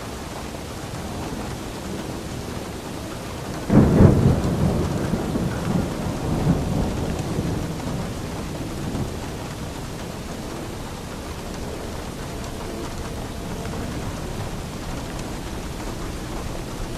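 Steady rain falling, with a thunderclap about four seconds in that rumbles on and fades over several seconds.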